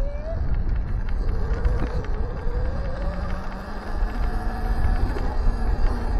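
Electric dirt bike riding along a trail: a faint motor whine climbing in pitch as the bike gathers speed, under a heavy rumble of wind on the microphone.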